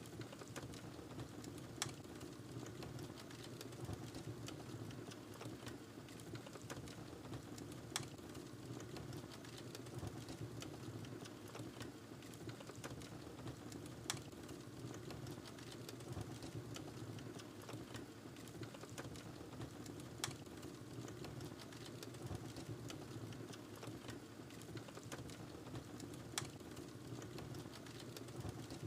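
Wood fire in a fireplace burning with a steady low rush and scattered small crackles. A sharp pop sounds about every six seconds.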